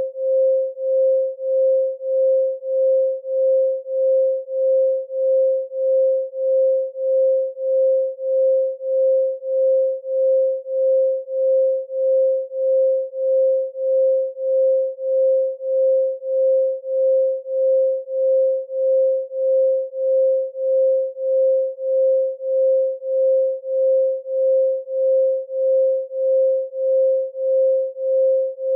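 A pure 528 Hz sine tone, swelling and fading in even pulses about one and a half times a second.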